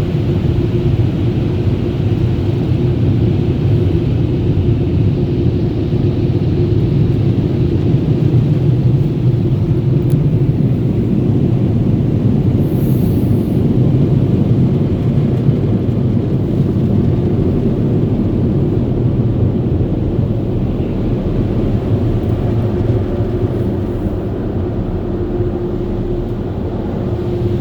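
Touchless car wash air dryer blowers running steadily over the van, heard from inside the cabin as a loud, even rumble with a faint steady hum, easing slightly near the end.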